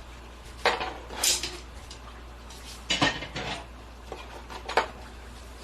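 Dishes and cutlery clinking and clattering during a meal: several separate sharp clinks spread through, over a low steady hum.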